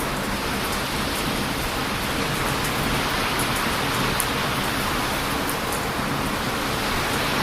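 Heavy ocean surf washing onto a beach as a steady rushing noise that builds near the end, with a few faint sharp crackles from a wood campfire.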